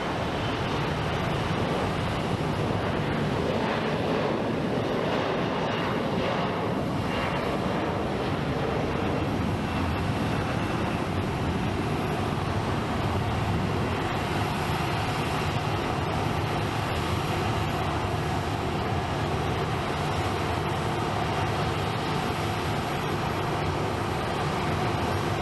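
Airliner engines running at the airport, a steady rumble with a thin whine above it.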